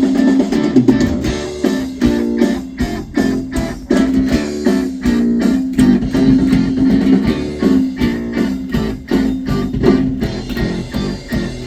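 Heavy rock music: an electric bass line over drums and guitar, played as a studio take.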